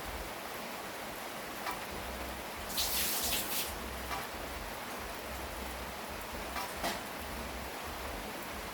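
Steady rain falling, an even hiss with a few faint drops ticking, and a brief louder rush of hiss about three seconds in.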